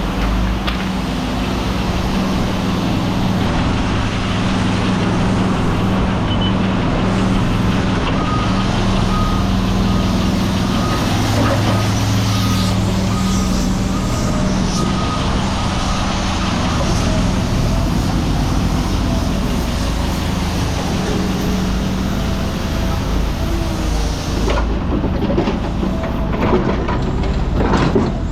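Diesel engine of heavy scrap-yard equipment running steadily, with a reversing alarm beeping for several seconds about a third of the way in. A few sharp knocks come near the end.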